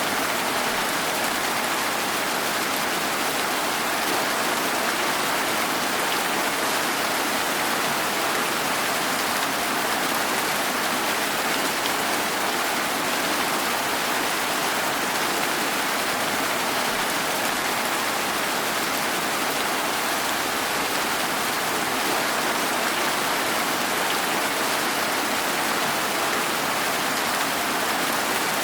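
Steady, even rainfall hissing, with no distinct drops or thunder standing out.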